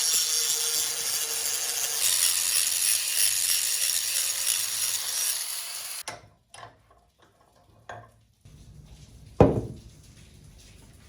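Steady rough scraping of a hand tool working wood, like sawing or sanding, for about six seconds. It stops suddenly, and a few light clicks and taps follow, then a single sharp knock near the end.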